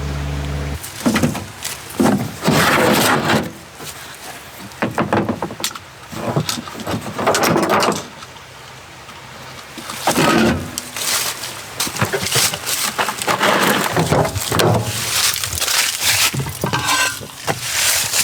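A steady hum cuts off abruptly about a second in, then dry sticks and brush are handled: irregular scrapes, rustles and snaps that come and go.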